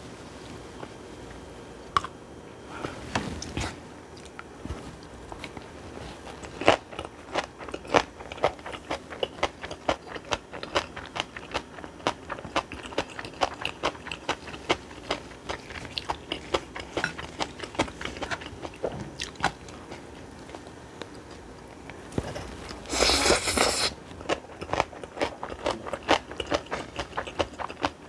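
Close-miked crunchy chewing and biting of bibimbap made with aged cucumber (nogak), a quick run of crisp clicks through the whole stretch. A louder noisy burst, about a second long, comes near the end.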